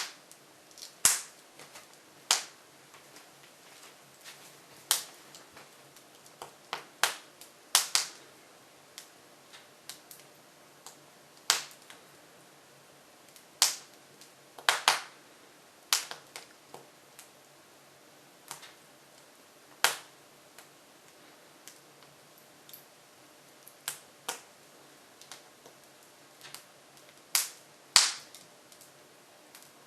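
Hardwood logs burning in an open-fronted Jøtul F500 cast-iron wood stove, crackling with sharp, irregular pops every second or so, some in quick pairs.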